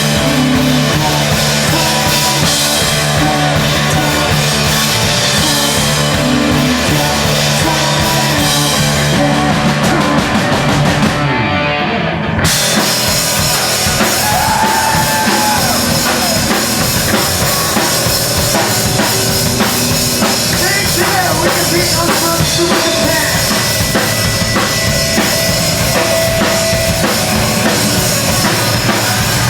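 Live hardcore band playing loud, with a pounding drum kit and distorted guitars. About eleven seconds in, the cymbals and high end drop out for a moment before the full band crashes back in.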